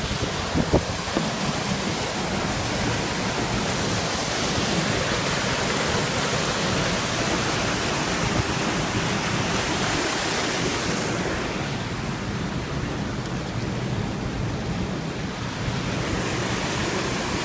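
Steady rush of fast-flowing river water, an even hiss with a low rumble; its upper hiss eases a little about two-thirds through. A couple of light knocks sound about a second in.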